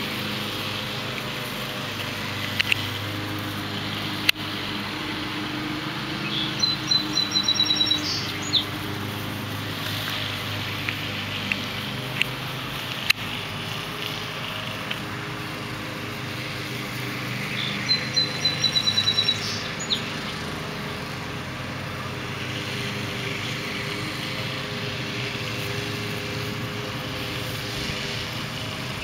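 A songbird repeats a rapid trill of evenly spaced high notes, about every ten seconds, three times in all. Under it runs a steady low mechanical hum, like an engine running at a distance.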